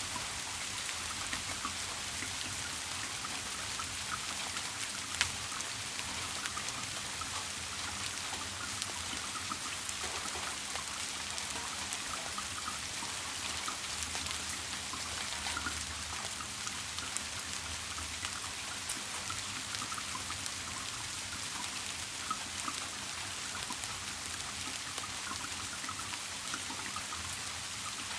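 Steady rain: an even hiss with a dense patter of small drops, and one sharper drop about five seconds in.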